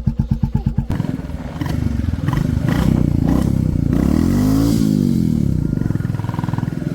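Royal Enfield Classic 350's single-cylinder engine through an aftermarket silencer, thumping at low revs. About a second in it turns to a denser, continuous note and revs up and back down around four to five seconds in.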